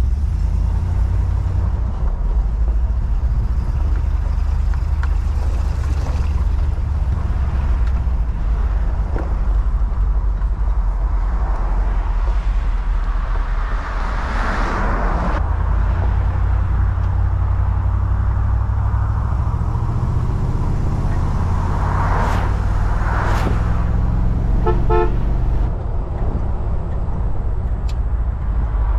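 Chevrolet Impala convertible driving with the top down: a steady deep engine rumble with wind on the open car, the engine note rising as it accelerates onto the road in the second half. Other cars pass by a few times, and there is a short run of quick pips near the end.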